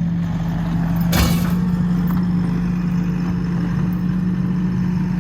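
Skid steer's diesel engine running steadily, with a short sharp hiss or clank about a second in.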